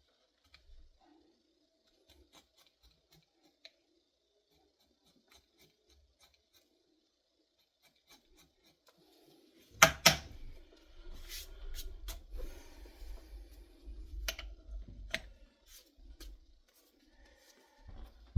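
Edge beveler shaving the edges of a leather strap: irregular scraping and rubbing strokes with low knocks and sharp clicks of the tool and leather on the bench. Only faint scattered clicks in the first half, then a loud click about ten seconds in, after which the scraping goes on.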